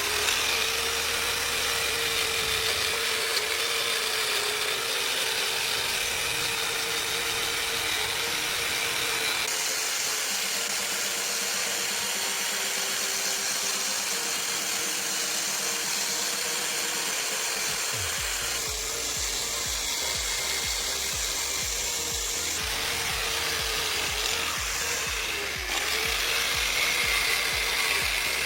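A handheld power tool running steadily against a workpiece, making a continuous abrasive grinding or sanding noise. Its motor pitch wavers slightly under load.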